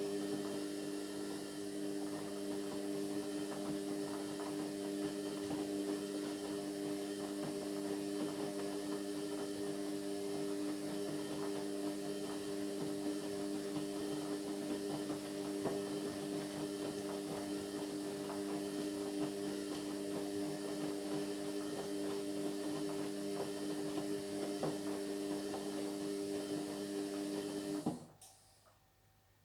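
Indesit MyTime washing machine running mid-cycle: a steady motor hum with a few fixed low tones, which stops abruptly near the end.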